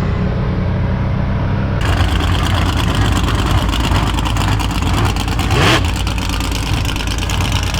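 Mud-bog truck engine running loud, then opening up hard about two seconds in into a dense, rattling roar, with a quick rising rev around the middle.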